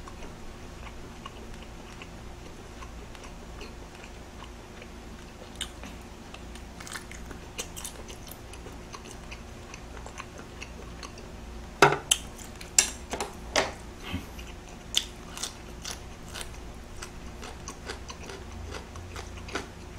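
Close-miked chewing of boiled squid, with scattered wet smacks and clicks, a quick run of them about twelve seconds in.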